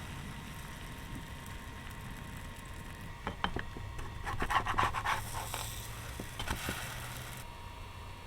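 Utensil scraping and tapping on cookware, with a quick run of clicks through the middle, over a steady sizzling hiss that cuts off suddenly near the end.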